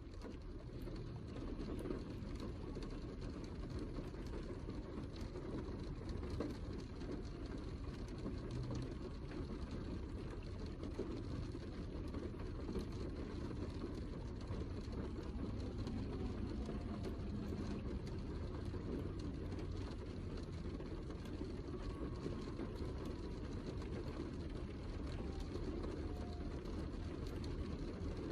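Heavy rain falling steadily, with a dense patter of individual drops over a low, even rumble, fading in over the first second or two.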